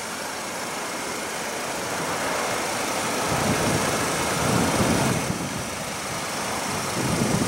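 Steady car engine and vehicle noise without distinct tones. A low rumble swells about halfway through and again near the end.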